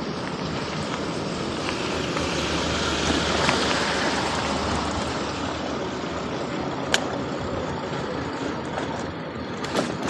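Steady vehicle noise that swells and fades over a few seconds, as of a vehicle going past. A sharp click comes about two-thirds of the way through, and a louder knock at the very end.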